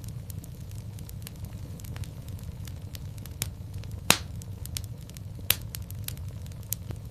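Fireplace fire crackling: a steady low rumble with scattered snaps, and two louder pops about four seconds and five and a half seconds in.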